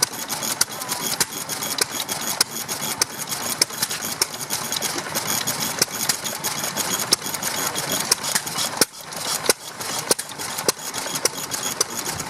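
Vintage stationary engine running slowly, each firing stroke a sharp knock, a little under two a second and slightly uneven.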